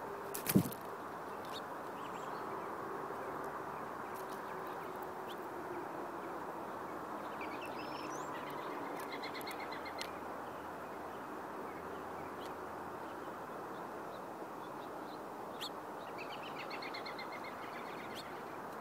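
Small birds calling in two bursts of rapid, repeated high chattering notes, about a third of the way in and again near the end, over a steady background hiss. A sharp knock sounds about half a second in, louder than anything else.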